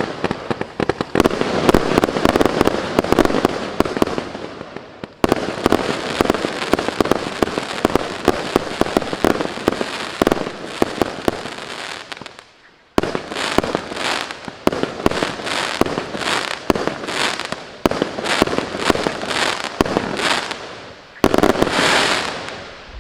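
Consumer multi-shot firework cake (MC127 Wezz Fireworks) firing: dense crackling volleys, with a brief break about five seconds in and a short gap at about twelve seconds. Then separate sharp shots about two a second, ending with a final crackling burst that fades away.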